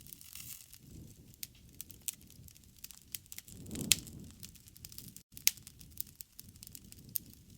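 Wood fire crackling, with irregular sharp pops and snaps over a low rush of flame that swells about four seconds in, where the loudest pop comes.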